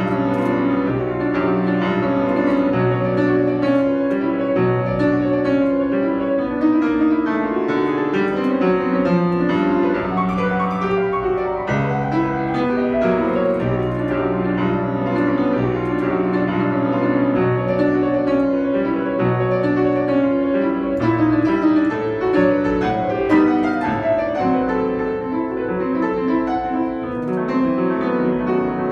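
Solo piano playing a classical piece, a dense, continuous flow of notes at an even loudness.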